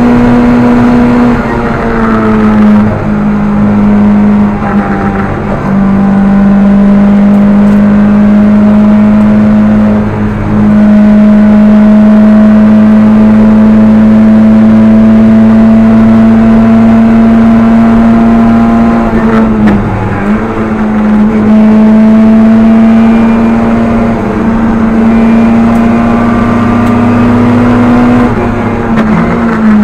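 Rally car engine heard from inside the cabin, running loud at high revs in long pulls where the pitch climbs slowly. The revs dip briefly a few times, about two, ten, twenty and twenty-nine seconds in.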